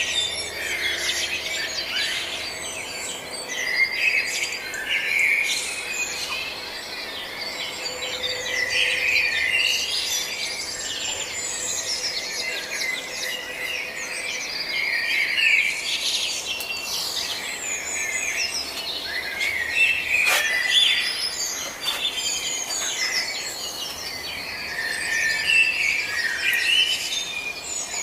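Many birds chirping and singing at once, a dense chorus of overlapping high chirps, trills and warbles.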